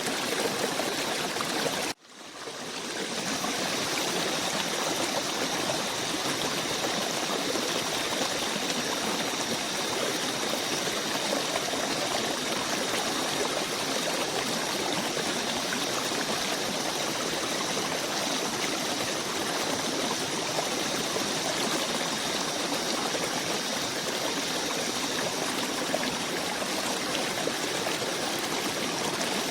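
Steady rushing of flowing water, like a forest stream. About two seconds in it cuts out for a moment and fades back up within a second.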